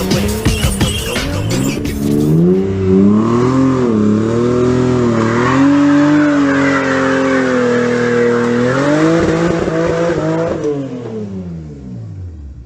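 Toyota Supra's 2JZ inline-six engine revving up and down while the tyres squeal through a long slide, then the engine note falls away and fades out near the end. The first couple of seconds hold a sharper, clattering sound.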